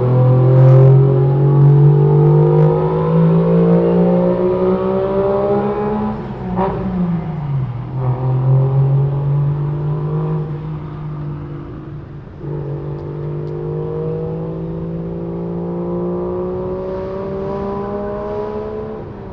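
A modified car's engine and exhaust accelerating hard through the gears, the pitch climbing steadily in each gear, with two upshifts where it drops and climbs again. It grows fainter as the car pulls away.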